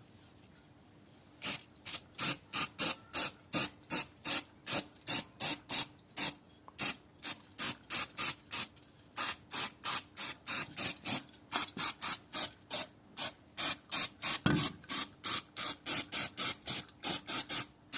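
Trigger spray bottle squirting oil onto rusted underbody parts in quick short bursts, about two to three squirts a second, starting about a second and a half in.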